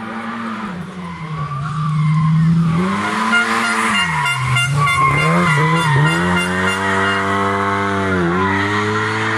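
Rally car engine revved hard. Its pitch drops and climbs several times around the middle as the driver lifts and shifts, then holds high at full throttle with one short dip near the end.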